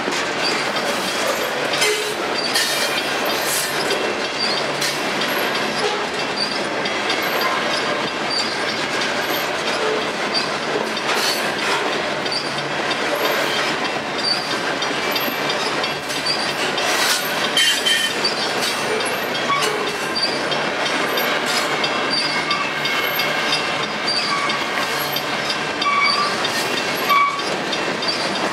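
Potash covered hopper cars of a freight train rolling steadily past, steel wheels rumbling on the rails with scattered clicks and many short, high wheel squeals.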